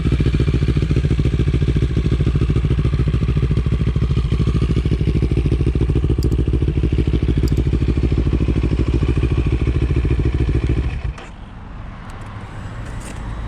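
CFMOTO 700CL-X parallel-twin engine running steadily through an IXRACE DC1 carbon aftermarket exhaust, with an even, pulsing exhaust note. About eleven seconds in, the sound drops off sharply, leaving a fainter low hum.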